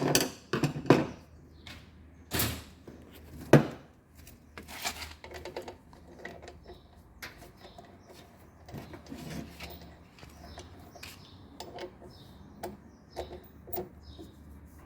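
Irregular knocks and clunks of motor parts being handled as the rotor is fitted over the stator of a washing machine's direct-drive motor. A few sharp knocks come in the first second and the loudest about three and a half seconds in, then quieter scattered handling noises follow.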